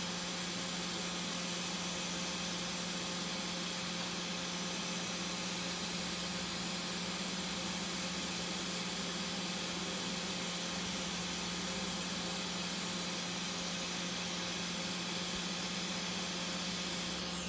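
Hot air rework station blowing steadily on a phone logic board to loosen the CPU for lifting: a constant airy hiss with a low hum.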